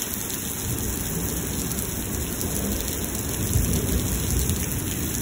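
Heavy rain pouring down steadily, with a low rumble of thunder swelling a little past the middle.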